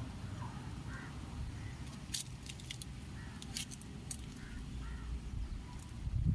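Birds calling outdoors in short scattered calls over a low steady rumble of wind on the microphone, with a few sharp metallic clicks about two and three and a half seconds in.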